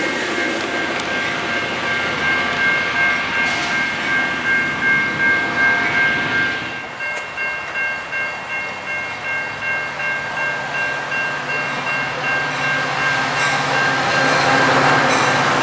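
Metra bilevel commuter train rolling away over the rails, its wheel noise fading out about seven seconds in, while a grade crossing bell dings steadily about twice a second. Near the end the diesel engine of the next Metra locomotive grows louder as it approaches.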